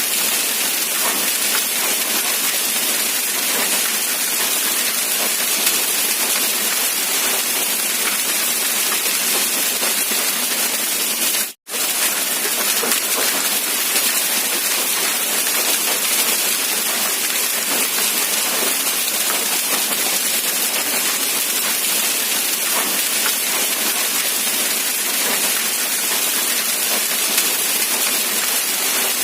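Steady rain falling, an even hiss without a break except for one split-second dropout a little before halfway through.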